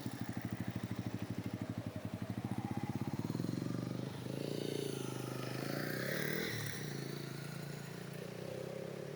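Small petrol engine running with a fast, even pulsing beat; about four seconds in its sound changes and its pitch wavers before it eases off.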